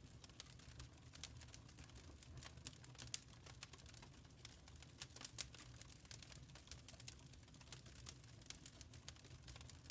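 Faint crackling of a wood fire in a fireplace: irregular sharp pops and snaps over a low, steady rumble.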